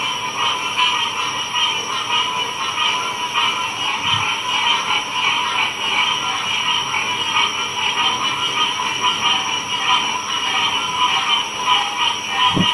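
Frog chorus: many frogs calling at once in a dense, steady, pulsing mass of overlapping calls at two pitches, one middling and one higher. A short low thud near the end.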